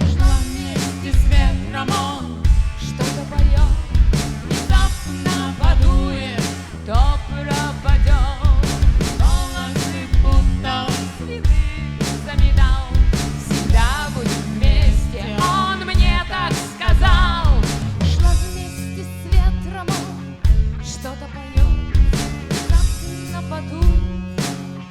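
Live rock band playing an instrumental break between verses: steady drums and bass under a lead melody that bends and wavers in pitch, settling into held chords near the end.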